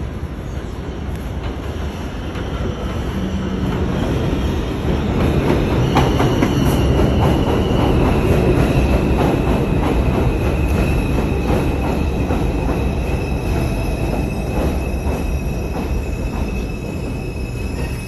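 R142 subway car in motion, a steady low rumble of wheels on rail that grows louder a few seconds in. From about six seconds in, a thin high wheel squeal sounds over it and drifts slightly lower in pitch.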